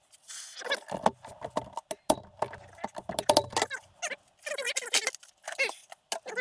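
Metal engine parts and hand tools clinking, knocking and rattling during hand disassembly of a small motorcycle engine, with a few sharp knocks.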